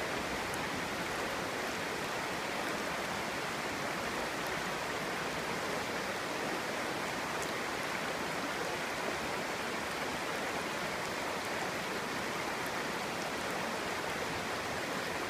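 Clear stream flowing over rocks, a steady babbling rush of water.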